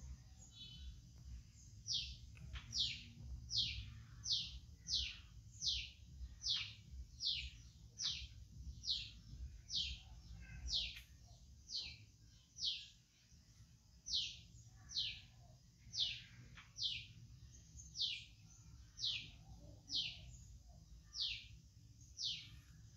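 A bird calling over and over, a long run of short, high, falling notes a little more than one a second, with a brief pause about halfway through.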